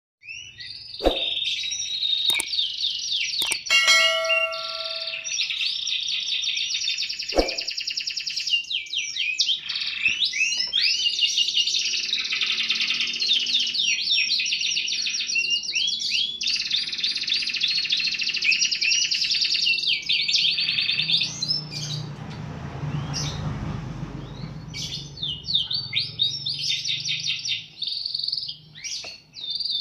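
Domestic canary singing a long, continuous song of rapid trills and rolling notes, with short pauses between phrases. A few sharp clicks and a brief steady tone sound about four seconds in, and a low rumble rises under the song past the twenty-second mark.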